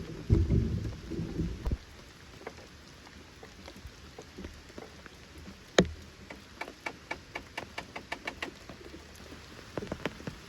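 Steady rain hiss, with heavy low thuds in the first two seconds, one sharp loud click about six seconds in, and then a quick run of sharp clicks, roughly five a second.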